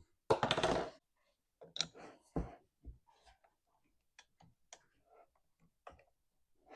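Scattered light clicks and knocks of hand tools and plastic parts being handled while a chainsaw is taken apart, with a short denser rattle in the first second.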